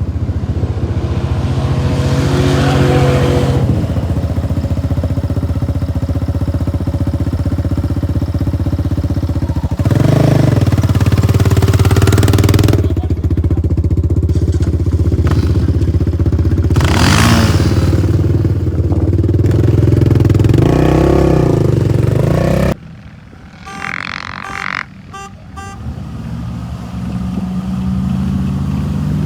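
Vehicle engine running with its pitch rising and falling as it revs. It cuts off abruptly about 23 seconds in, then comes back with a rising pitch near the end.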